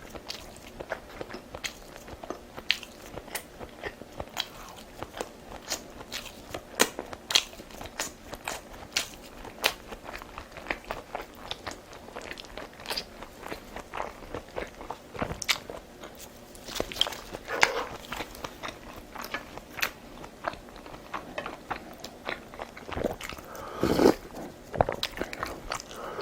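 A person eating close to the microphone: biting and chewing in a quick, irregular run of crisp clicks and crunches, with a louder, longer mouth sound near the end.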